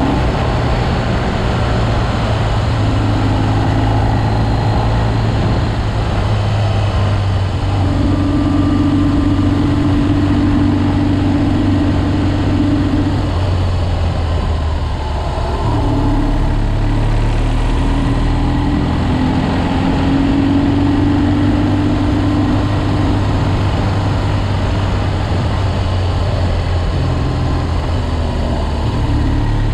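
BMW R 1200 GS boxer-twin engine running on the move, its note swelling and easing off several times as the throttle changes, with steady wind noise over the microphone.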